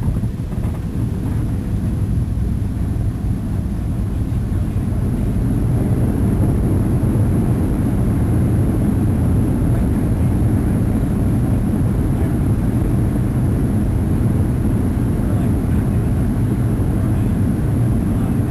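Boeing 737 cabin noise heard from a passenger seat: a steady low rumble of the jet engines and airflow, growing a little louder a few seconds in.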